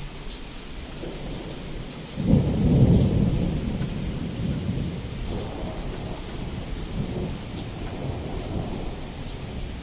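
Steady heavy rain with a thunderclap a couple of seconds in: a sudden loud low crack that rolls on as a rumble, slowly dying away over the following seconds.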